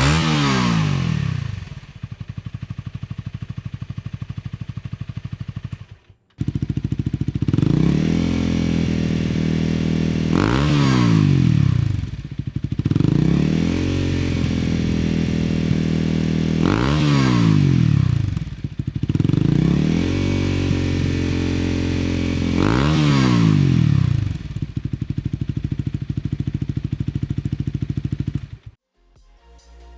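Honda Rebel 250's single-cylinder engine idling and being revved at part throttle: one brief rev through the stock muffler, then after a short break three revs through an OVER Racing SS megaphone full exhaust, each held for about five seconds before falling back to idle. The sound cuts off near the end.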